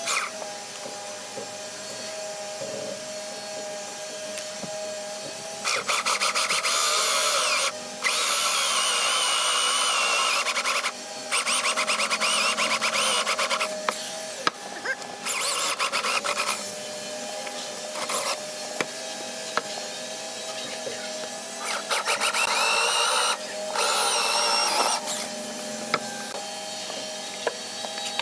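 A handheld power tool working wood, run in several bursts of two to three seconds, its whine wavering with the load, with a steady low hum between the bursts.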